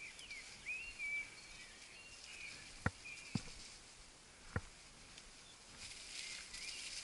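Faint bird calls, short whistled notes that slide up and down, over quiet outdoor air. Three sharp knocks come about three, three and a half and four and a half seconds in.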